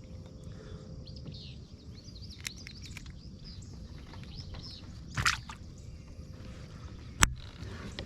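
Songbirds chirping in short, high calls, with a brief rushing noise about five seconds in and a single sharp knock near the end, the loudest sound here.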